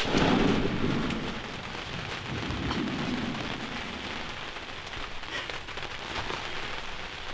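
Steady rain falling, an even hiss throughout, with low rumbles swelling in the first second and again about three seconds in.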